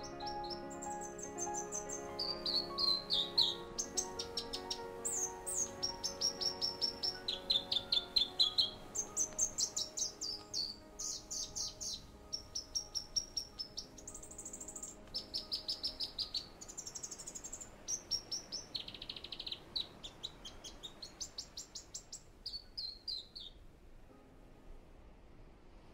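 A songbird singing a long run of short, varied phrases: quick trills and whistled notes, one after another. Soft background music fades out under it over the first half, and the birdsong stops shortly before the end.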